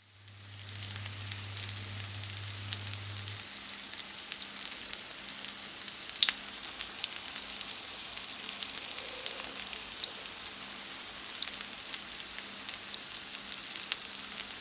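Food frying in hot oil: a steady sizzle with frequent small crackles and pops. A low hum runs under it and stops about three seconds in.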